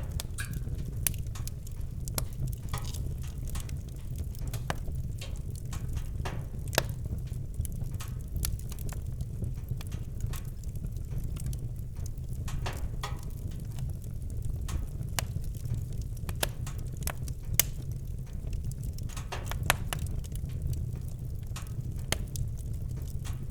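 Campfire crackling and popping: a steady run of small snaps with a few louder pops, over a low steady rumble.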